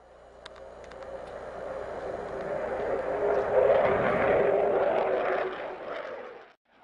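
Military fighter jet's engine noise, building steadily from faint to its loudest a little past the middle, then cutting off abruptly just before the end.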